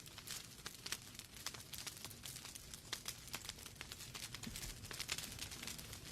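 Wood fire burning in a fireplace, logs crackling and popping in irregular sharp snaps over a faint low rumble of the flames.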